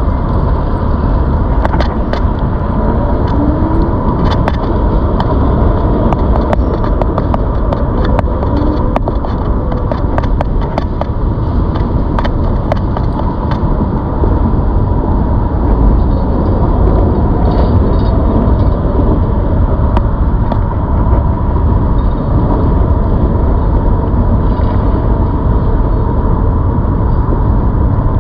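Steady rush of wind and tyre noise from riding an electric bike, heaviest in the low end. A faint steady tone runs under it, and scattered sharp clicks and rattles come mostly in the first half.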